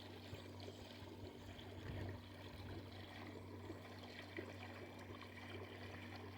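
Faint water trickling and splashing over a steady low hum, from the pool's filter pump drawing water through the vacuum hose.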